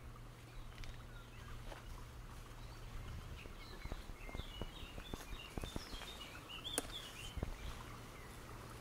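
Small birds chirping over faint outdoor background noise, with scattered soft clicks.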